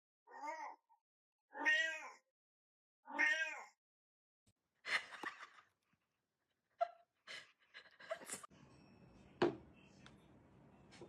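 A cat meowing three times, about a second and a half apart, followed by a rougher, noisier cry. A few sharp clicks and a single knock follow over faint room hiss.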